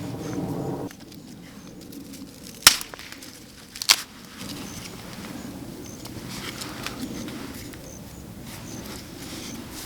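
Two sharp cracks of snapping wood about a second apart, then soft rustling in the undergrowth.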